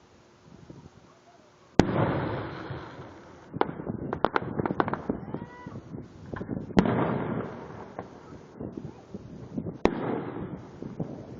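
Fireworks bursting overhead. A loud bang about two seconds in is followed by a long rolling rumble, then a quick run of sharp cracks. Two more loud bangs, each with its own rumble, come about seven and ten seconds in.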